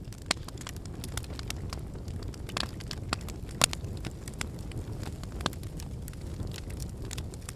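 Wood fire burning with a steady low rush of flame and irregular sharp crackles and pops of burning firewood, the loudest pop about three and a half seconds in.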